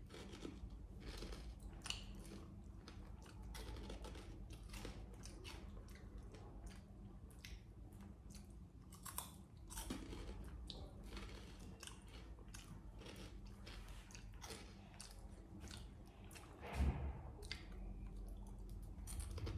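Potato chips being crunched and chewed: a run of irregular crisp crunches. There is one brief louder low thump near the end.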